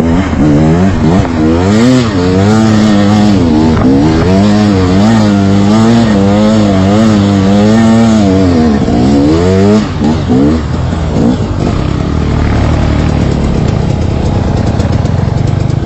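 Trail motorcycle engine running, its pitch rising and falling over and over as the throttle is worked, then settling into a lower, steady run about ten seconds in.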